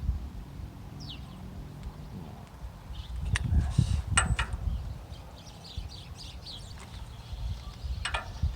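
Metal tool clinks and knocks over a low rumble: a socket and wrench being tried on an upper control arm bushing bolt, with a few sharp clicks around the middle and another near the end.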